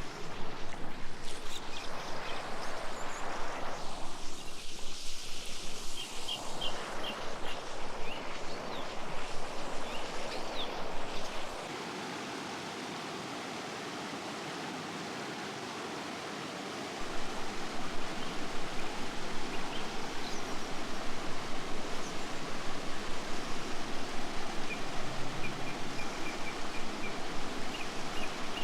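A river or stream flowing, a steady wash of water noise.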